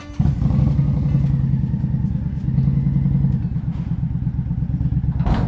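Indian Scout Bobber's V-twin engine running steadily at low speed, cutting in suddenly a moment in. There is a brief thump near the end.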